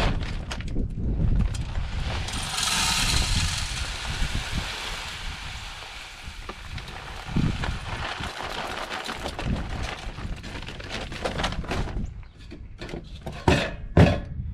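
Birdseed being poured into a bird feeder, a grainy rustling hiss, followed by handling noise and a few sharp knocks near the end.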